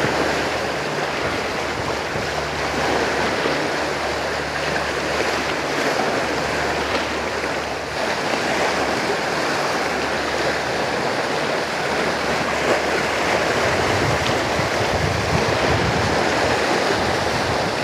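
Sea waves washing against a rocky shore, a steady rushing wash.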